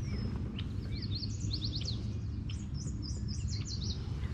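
A songbird singing a quick run of short, high chirps for a few seconds, over a steady low background rumble.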